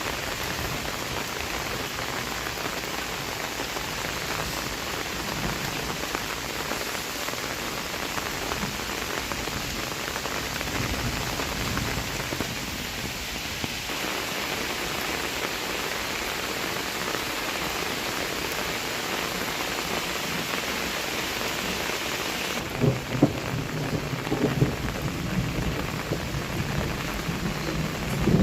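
Heavy rain falling steadily on surfaces, an even hiss. From about two-thirds of the way in, thunder rumbles low under the rain, with louder peaks shortly after it begins and again at the end.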